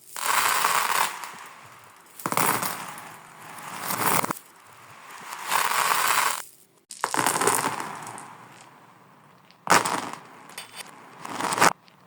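Marbles rattling and rolling along a marble-run track, played in reverse: repeated swells of clattering noise, several of which build up and then stop abruptly.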